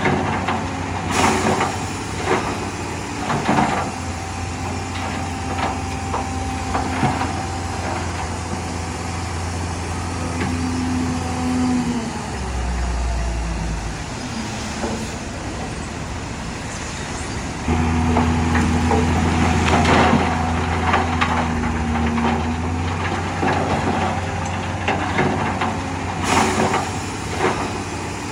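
Heavy diesel construction machinery working: a steady engine drone with scattered metallic clanks. About halfway through the engine note drops lower, then it comes back up under load a few seconds later.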